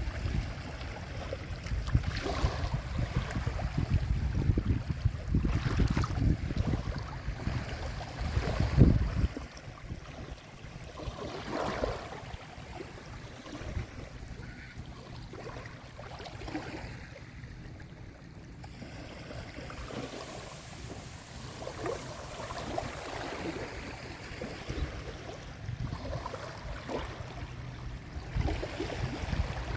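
Sea waves washing onto the shore, heavier with a deep rumble for the first nine seconds or so, then settling to a gentler lapping wash.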